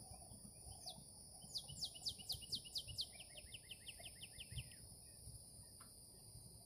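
A bird singing a run of quick downslurred notes, each sliding down and the series stepping lower in pitch over about three seconds, over a steady high-pitched insect drone.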